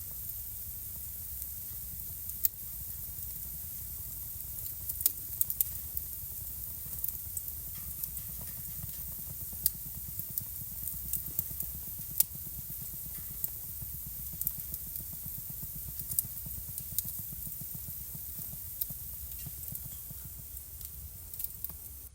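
Wood fire burning in a home fireplace: a steady low rumble and hiss with frequent sharp crackles and pops, several of them loud and scattered irregularly.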